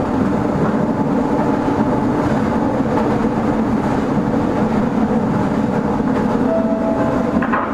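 Meitetsu 6000 series electric train heard from inside the car while running: a steady rumble of wheels and motors on the track. A short higher tone comes in about six and a half seconds in.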